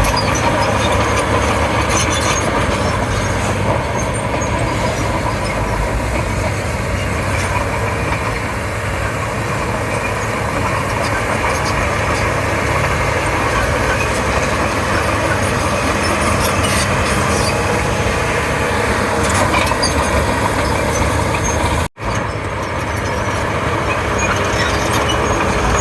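Bulldozer's diesel engine running steadily under working load. The sound drops out for an instant about 22 seconds in.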